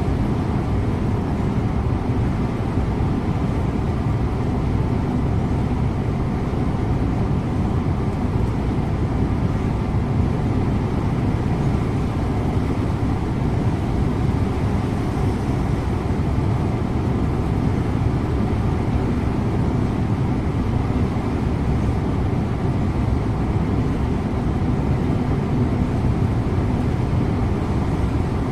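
Scania InterLink coach's engine and road noise heard from the driver's seat: a steady low rumble with no change in speed or load.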